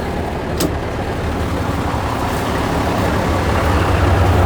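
Military 2.5-ton truck's multi-fuel inline-six diesel running steadily, getting a little louder over the last couple of seconds, after sitting unstarted for well over a year. A short click about half a second in.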